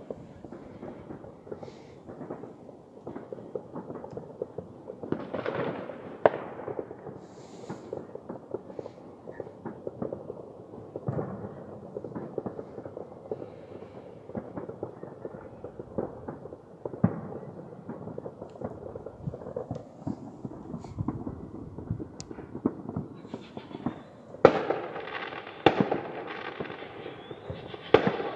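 Many fireworks going off across the area: a constant background of popping and crackling with frequent single sharp bangs. Near the end a denser, louder spell of crackling sets in.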